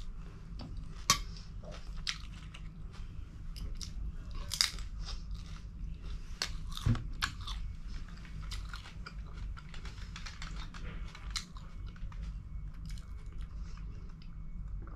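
Close-miked eating: chewing and biting with wet crunches and clicks of a spoon. About seven seconds in there is a single knock. Near the end comes sipping through a straw.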